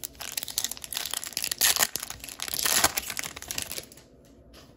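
A trading card pack wrapper being torn open and crinkled by hand, a dense run of crackling that is loudest in the middle and stops about four seconds in.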